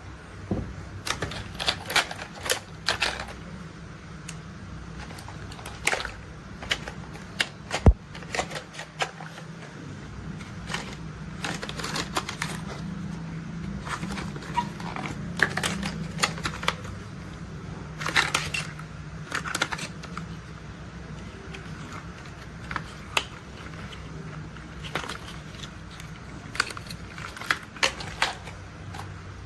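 Irregular clicks and knocks of plastic toy construction vehicles being handled, over a low steady hum, with one sharper knock about eight seconds in.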